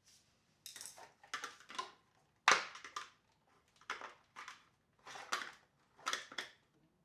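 Plastic housing parts of a Tineco floor washer being handled and fitted back together: a series of short, irregular clicks and rattles, the sharpest a single click about two and a half seconds in.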